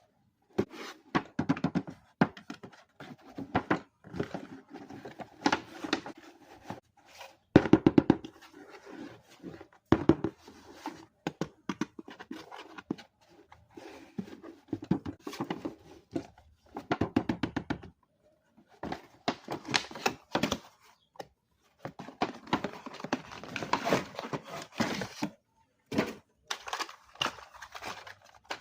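Toy packaging being handled: a stream of irregular thunks, knocks and rustles in short bursts with brief pauses.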